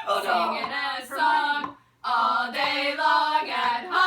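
Female voices singing a layered a cappella chant of held, pitched notes, breaking off for a moment about two seconds in before coming back.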